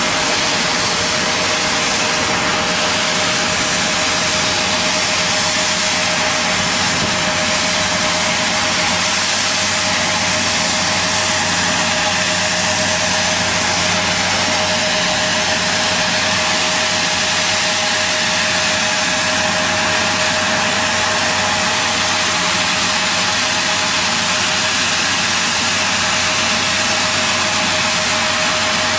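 Steady, loud engine noise with a constant high whine and no change in pitch or level.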